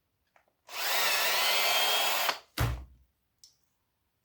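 A small power tool's motor runs for about a second and a half with a steady whirring whine, then stops. A short dull knock follows, like a part or tool set down on the bench.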